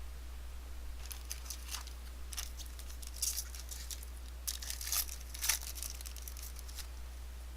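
Plastic foil wrapper of a trading-card pack crinkling and tearing open in a string of short, irregular crackles, over a steady low hum.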